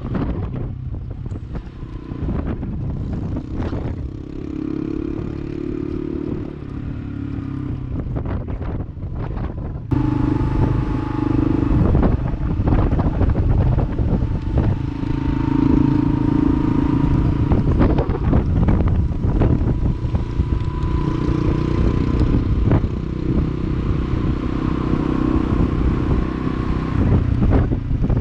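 Honda Cross Cub motorcycle's small single-cylinder engine running while riding, with wind buffeting the microphone. The sound jumps louder about ten seconds in.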